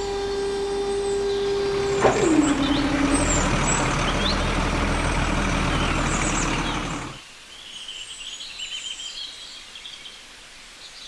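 Small electric motor of a DIY toy mini tractor whining steadily. About two seconds in, its pitch drops sharply as it takes load and a rushing hiss of soil being tipped out joins it. Both cut off about seven seconds in, leaving faint bird chirps.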